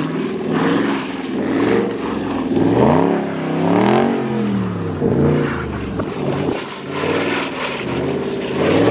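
Dodge Scat Pack's 6.4-litre HEMI V8 revving up and down again and again, the pitch rising and falling about once a second or so. The throttle is being tapped to break the rear wheels loose and spin the car in donuts on snow.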